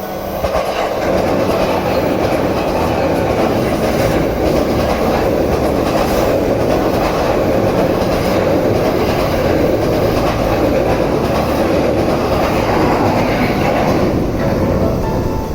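Electric train passing straight through a station at high speed: a loud, steady rush of wheel-on-rail noise that builds over the first second and fades near the end.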